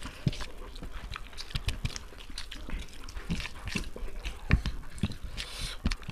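Wet chewing and lip-smacking of two people eating chicken biryani with their hands, a steady run of short mouth clicks and smacks, with a sharper smack about four and a half seconds in.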